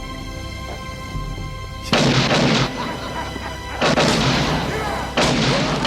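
Three loud gunshots from a film soundtrack, spaced a bit under two seconds apart, each ringing out for most of a second, over sustained orchestral score.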